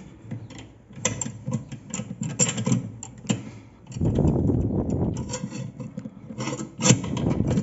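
Hand tools working on washing machine parts: irregular metal clicks and knocks, then a couple of seconds of heavier rubbing and grinding about four seconds in.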